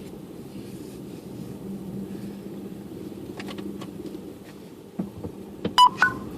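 Car driving, a steady low drone of engine and road noise heard from inside. A few sharp clicks come in the second half, the loudest two close together near the end.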